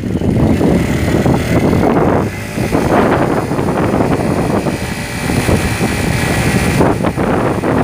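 Motorcycle on the move: wind buffeting the microphone over the running engine, with a brief lull about two seconds in.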